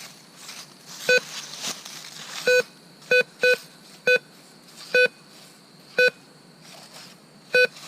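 Metal detector in coin mode giving short beeps of the same pitch, eight of them at uneven spacing, as its coil sweeps over a silver coin a few inches underground: the detector's signal for a coin target. A soft rustle of leaves is heard in the first two seconds.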